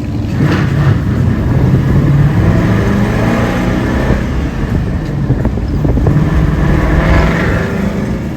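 Car engine pulling hard under throttle, its pitch rising and falling as it accelerates.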